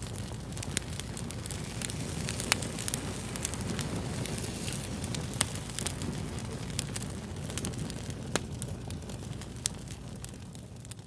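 Fire crackling: a steady low rumble and hiss under frequent sharp pops, with a few louder pops scattered through.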